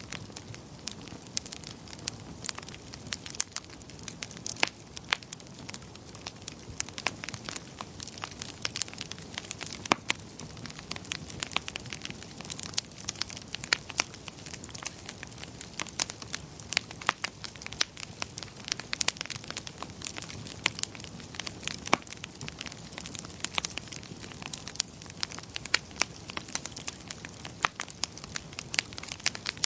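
Wood fire crackling in a fireplace: irregular sharp pops and snaps, several a second, over a soft steady rush of the flames.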